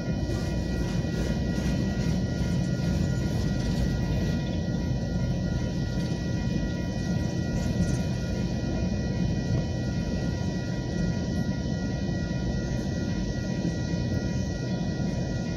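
Union Pacific freight train's coal cars rolling past a grade crossing: a steady low rumble of steel wheels on the rails. Steady high tones sit above the rumble.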